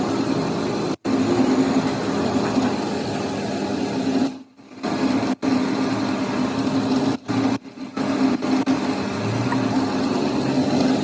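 A machine running with a steady mechanical hum, cut off abruptly several times.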